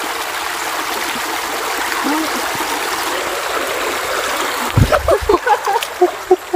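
Creek water running steadily over rocks. A short, dull low thump comes near the end, followed by brief voice sounds.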